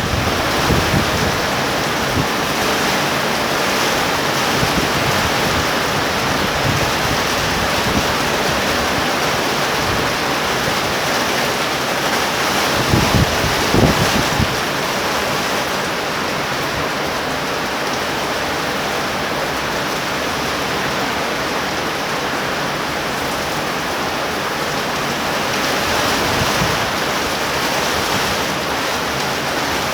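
Heavy rain pouring down in a steady hiss. Gusts of wind buffet the microphone at the start and again about halfway through.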